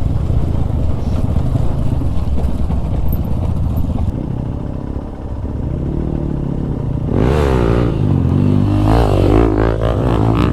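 Motorcycle engines running, then revving up and down repeatedly from about seven seconds in.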